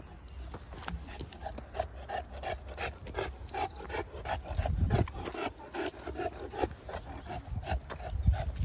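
Boerboel dog panting in quick, even breaths, about three a second. Louder low thumps come about five seconds in and again near the end.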